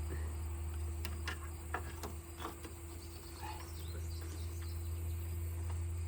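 Insects trilling steadily under a low hum, with a few light clicks and knocks from hand work on a lawn mower between one and two and a half seconds in.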